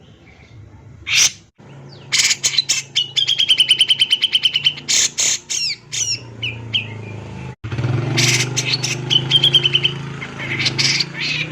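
Cucak jenggot, a bulbul, singing hard: loud, sharp whistled notes mixed with fast rattling trills. One trill starts about two seconds in and runs about three seconds; a shorter one comes near the end.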